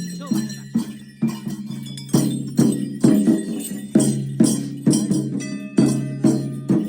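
Drum beaten in a steady rhythm of about two strokes a second, with bells jingling and ringing along with it.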